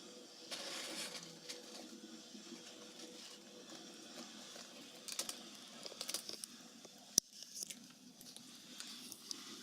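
Rustling and crinkling of a chip bag as a cat works at it, with a burst of rustling near the start and scattered sharp crackles and clicks later.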